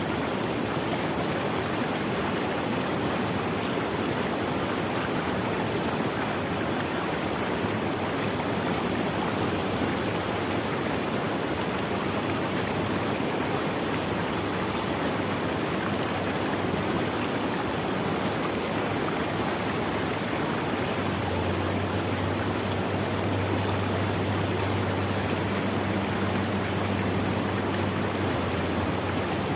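Running water in a stream, a steady, unbroken flow. A faint low hum comes in about two-thirds of the way through.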